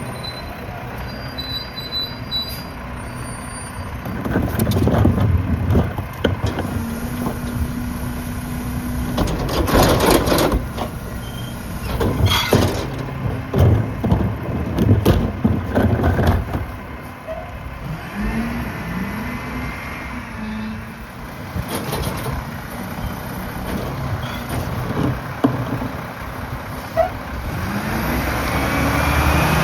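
Mack garbage truck's diesel engine running, with loud crashing and banging in the middle as trash is packed by the Heil rear-loader compactor. The engine revs up near the end.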